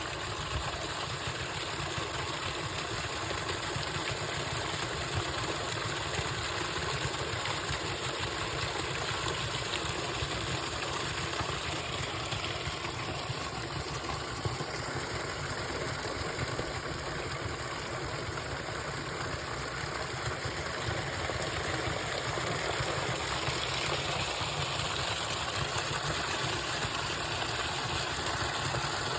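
A small waterfall: water falling and splashing in a steady, even rush.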